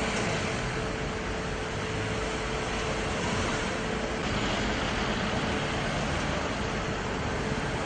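Steady street noise of vehicles and traffic, with a faint steady hum that fades out about six seconds in.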